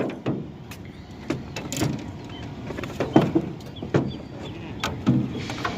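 Irregular knocks and clunks, about ten in a few seconds, from fishing gear being handled in a small boat.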